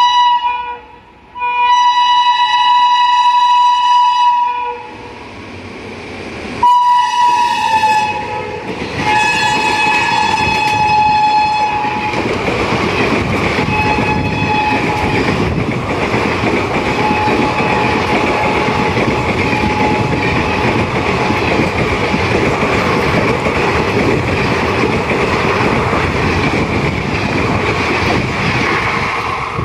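Locomotive horn of a through express blowing two long blasts, then another blast that drops slightly in pitch as the train reaches the platform. The passenger coaches then run through at speed with a steady rumble and wheel clatter over the rails.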